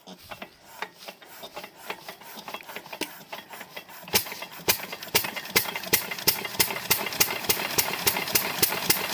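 12 hp diesel irrigation pump engine catching and picking up speed. Its firing strokes are heard as evenly spaced knocks that grow louder and come a little quicker, reaching about two to three a second.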